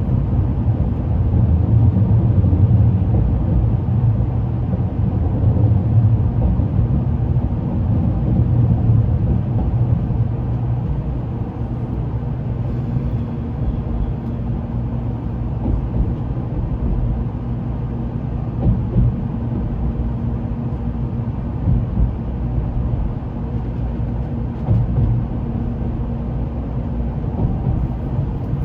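Running noise inside a Shinkansen car, a steady low rumble. A faint hum joins about halfway through, and there are a few light knocks near the end.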